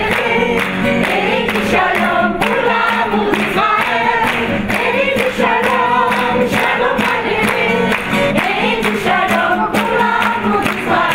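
A choir singing, continuous, over a steady held low note.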